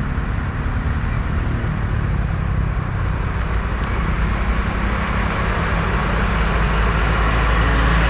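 A motor vehicle's engine running steadily, with a rushing noise that grows louder over the last few seconds.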